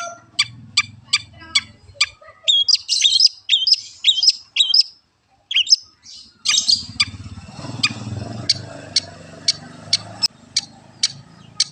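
Long-tailed shrike (cendet) singing: a run of sharp, evenly repeated chip notes, then quick warbled phrases, a short pause about five seconds in, then more sharp repeated notes. A low background rumble comes in for a few seconds past the middle.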